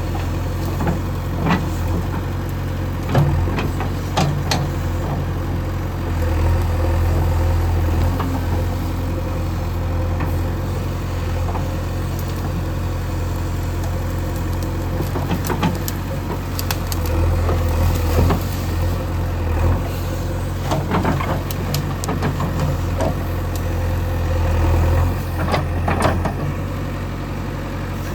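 JCB 3DX backhoe loader's diesel engine running steadily, working harder in a few stretches, with scattered short knocks and clanks from the machine at work.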